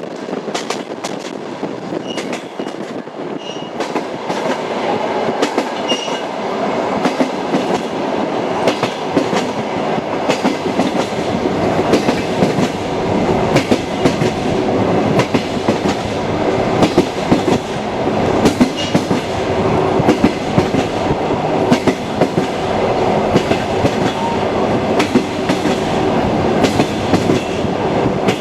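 Railway carriage wheels clattering over rail joints with a steady rumble and frequent sharp knocks, growing louder over the first several seconds.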